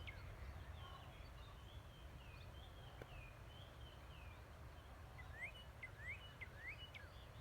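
Birds chirping at dawn: a run of short, quick rising chirps and slurred whistled notes, faint over a steady low rumble.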